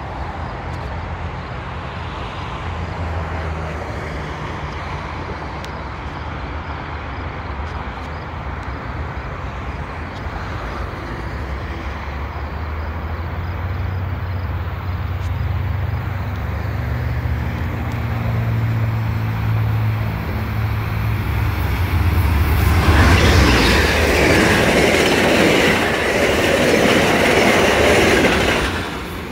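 VIA Rail passenger train approaching at speed, its diesel hum low and steadily growing louder, then passing close by about 23 seconds in with a loud rush of air and wheels on the rails for about six seconds, dropping away sharply near the end.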